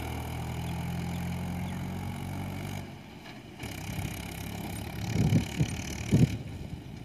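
Diesel tractor engine running steadily, cutting off abruptly about three seconds in. After that a quieter engine sound goes on, with a couple of loud low thumps near the end.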